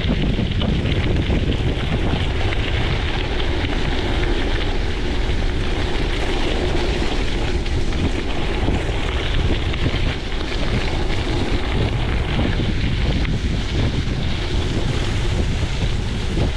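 Wind buffeting a chest-mounted action camera's microphone while riding a gravel bike, a steady rumble mixed with the hiss of tyres rolling on gravel.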